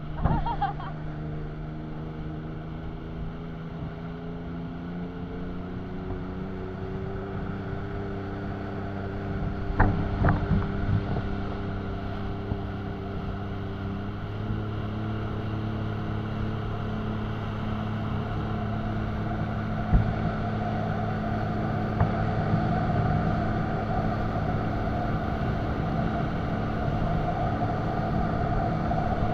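Jet ski engine running steadily under way, its pitch slowly rising over the first several seconds and the sound gradually growing louder, with a few sharp knocks along the way.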